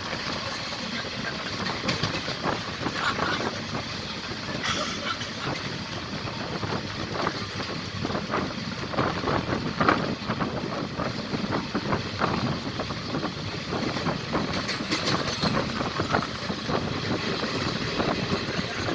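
Express train running through the station without stopping: a steady rumble of wheels on the rails, with a clatter of many short knocks as the coaches pass.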